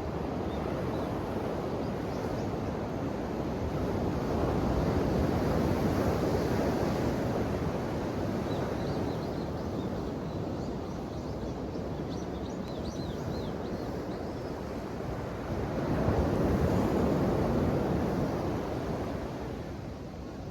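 Ocean surf washing onto the shore in a steady rush, swelling into a louder wave about five seconds in and again about sixteen seconds in.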